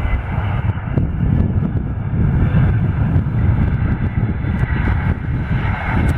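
Airliner jet engines, a loud, steady low rumble with a faint steady whine above it.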